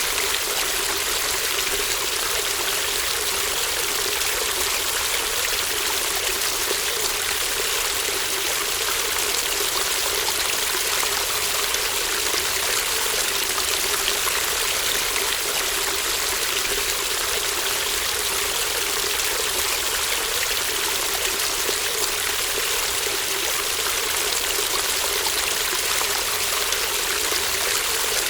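Babbling brook: shallow water running steadily in an even, continuous rush with no breaks.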